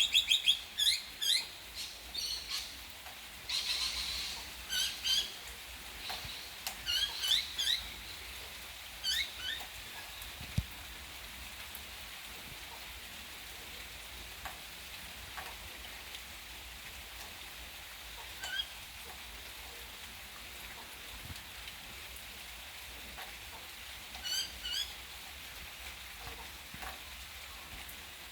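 Small birds chirping in quick high series, many in the first ten seconds and only a few later, over the steady hiss of falling rain.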